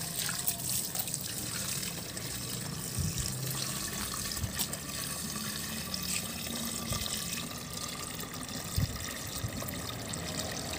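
Running water splashing and trickling over plastic toy vehicles as they are washed, with a few light knocks of plastic.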